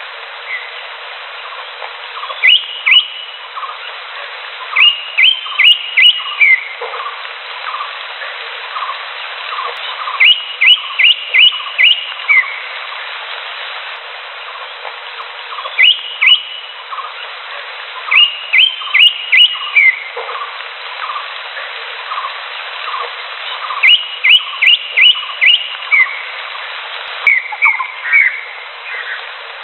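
A cucak hijau (leafbird) sings in bursts of three to five short, rising whistled notes, repeated every few seconds. Behind it runs a steady bed of softer, lower repeated notes.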